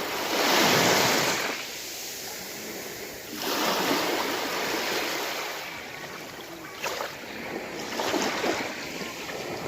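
Sea waves breaking and washing onto the shore: a big surge in the first second and a half, another a little over three seconds in, then smaller swells with a few sharp splashes.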